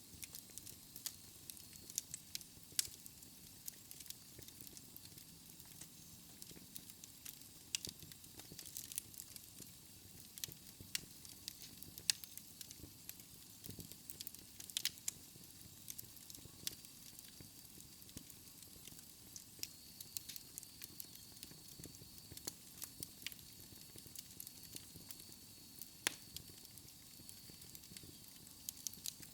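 Wood fire in a fireplace crackling, with irregular sharp pops over a soft steady hiss and low rumble of the flames. A faint high whistle joins in during the second half.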